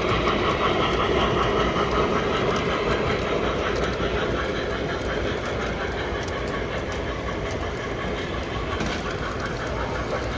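Model train running along a layout's track, a steady rolling rumble of wheels and motor that swells at the start and slowly fades.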